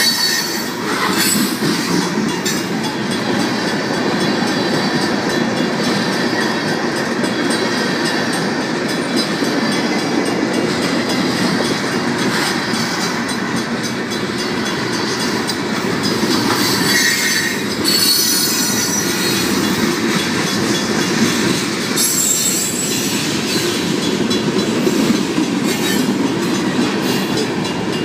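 Union Pacific freight cars rolling through a grade crossing with a steady rumble and wheel clatter. There are bursts of high-pitched wheel screech, the clearest about two-thirds of the way through and near the end. The crossing warning bells keep ringing throughout.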